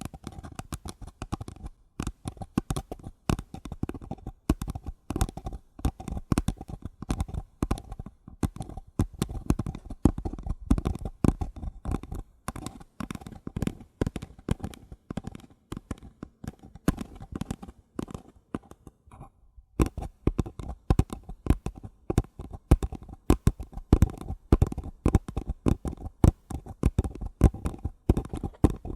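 Fingers tapping rapidly and irregularly on paper cups, a dense stream of light taps. There is a short lull about two-thirds of the way through, then the tapping comes back a little louder.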